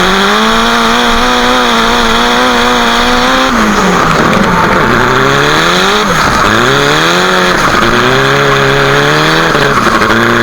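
Nissan Silvia's exhaust heard right at its bonnet-exit muffler while drifting. The engine is held at high revs for the first few seconds, then the revs drop and climb again several times as the throttle is lifted and reapplied, with tyre squeal under it.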